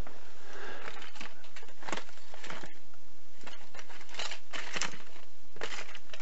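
Irregular scratching and rustling rasps from scraping dirt out of the edge of a phone's frame, a few short scrapes at uneven intervals.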